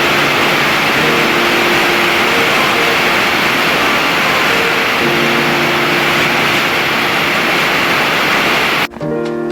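A loud, steady rushing noise with background music faintly beneath it. The noise cuts off suddenly near the end, leaving only the music.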